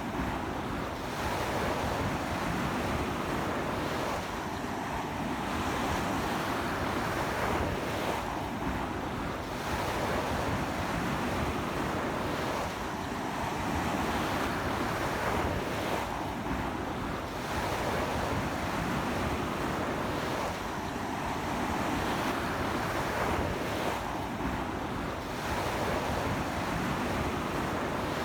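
Ocean surf washing onto the shore in a strong sea wind: a continuous rush of breaking waves that swells and eases about every four seconds.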